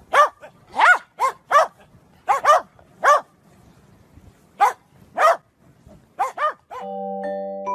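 A dog barking: about a dozen short, high-pitched barks, some single and some in quick pairs, with pauses between. Music with bell-like mallet notes starts near the end.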